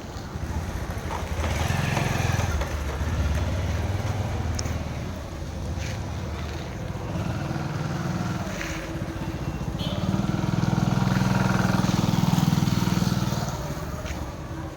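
An engine running, louder twice: once about two seconds in, and again for a few seconds near the end, with a few sharp clicks.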